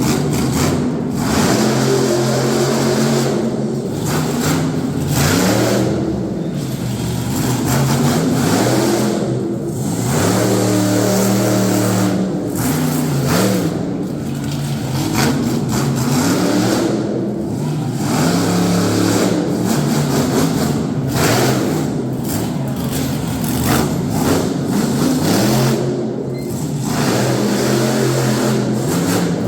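Monster truck engine revving hard over and over, its pitch climbing and falling back in repeated bursts with short drops in between.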